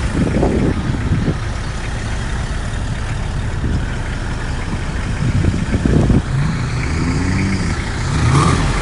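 Off-road 4x4 engine running at idle, a steady low rumble.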